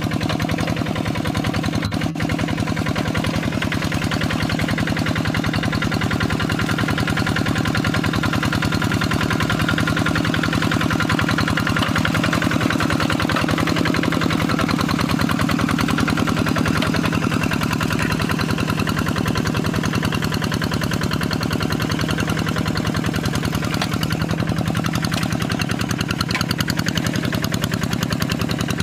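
Kubota RD85DI-2S single-cylinder diesel engine on a Quick G3000 hand tractor, running steadily with a rapid, even beat of firing pulses.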